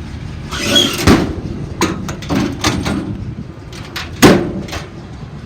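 Cabinet doors on a pickup's utility bed being opened and shut: a string of latch clicks and knocks, with one loud slam about four seconds in.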